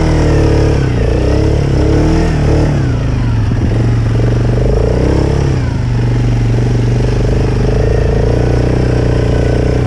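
ATV engine revving up and down several times over about six seconds, then running at a steady pitch.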